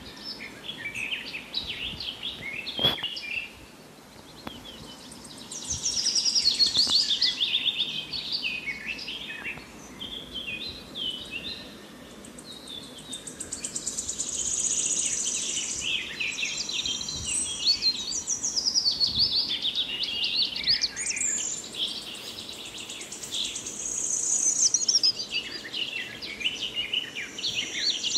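Several birds chirping and singing together, with many quick overlapping high notes that swell and fade in waves.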